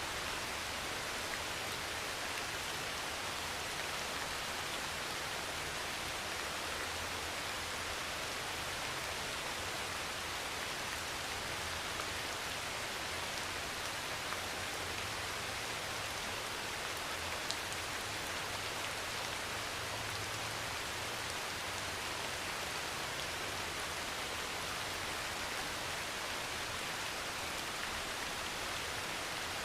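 Heavy rain pouring steadily on a metal roof, with a few sharp drop ticks, the clearest a little past halfway.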